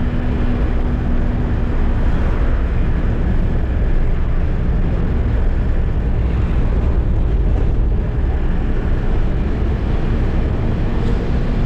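Eicher truck driving, heard from the cab: a loud, steady rumble of engine and road noise.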